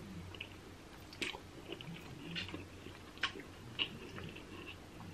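Close-up eating sounds: chewing and smacking on seafood, with a few sharp clicks of crab shell.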